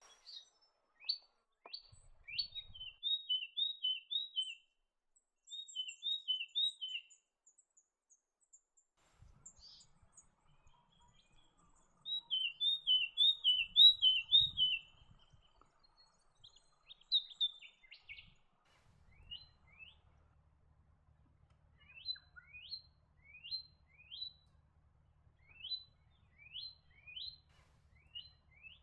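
Leaden flycatcher calling: runs of short, quick, high notes repeated in bursts, the loudest run about twelve seconds in, then spaced single notes toward the end.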